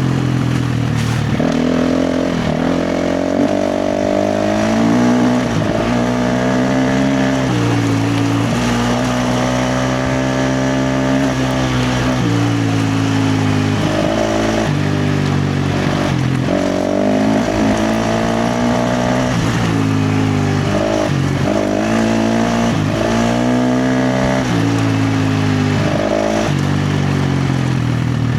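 KTM 350 XC-F dirt bike's single-cylinder four-stroke engine under hard throttle, its pitch climbing and dropping back again and again as the rider accelerates and backs off.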